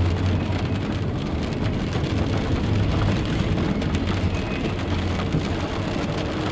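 Rain falling on a car's windshield and roof, heard from inside the cabin as a steady hiss with many small drop ticks, over a steady low rumble.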